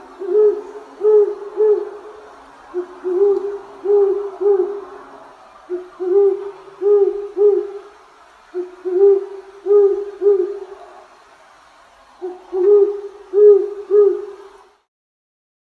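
A bird's low hooting calls, given in five phrases of three or four short notes each.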